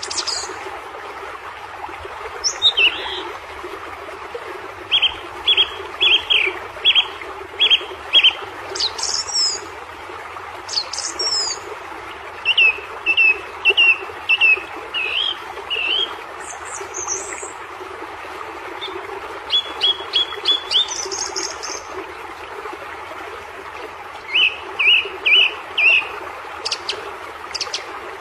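Birds chirping in short runs of quick repeated notes, with higher calls in between, over a steady background noise.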